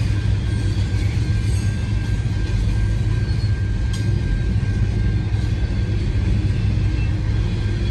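Cars of a long intermodal freight train rolling slowly past: a steady, loud low rumble of wheels on rail, with a faint thin whine held steady above it.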